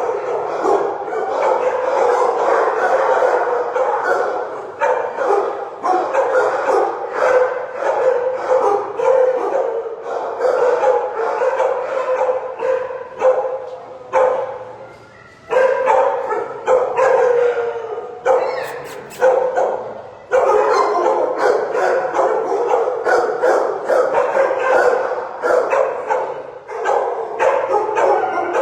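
Many shelter dogs in their kennels barking at once, a near-continuous din of overlapping barks that briefly drops away about halfway through and again about two-thirds in.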